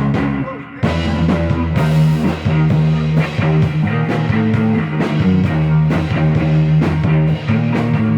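Rock band playing a psychedelic rock song with guitar over a steady beat. The full band comes in louder about a second in.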